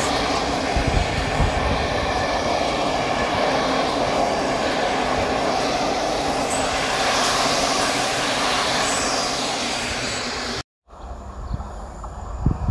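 Train running past on the tracks, a steady loud rolling rumble of wheels and carriages. It cuts off suddenly about ten seconds in, and a quieter stretch follows with a low thump near the end.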